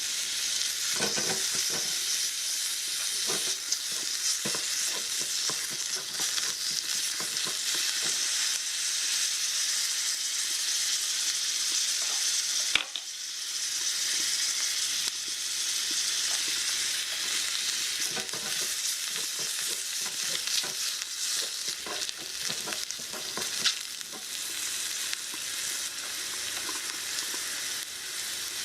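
Food frying and sizzling in a miniature frying pan while it is stirred and scraped with a small utensil: a steady hiss with irregular scrapes, broken once by a sharp click and a short dip about thirteen seconds in.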